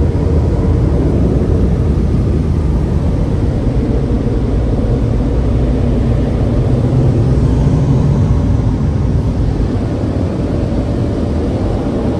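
Tunnel car wash dryer blowers running: a loud, steady rush of air with a low rumble and a faint steady hum.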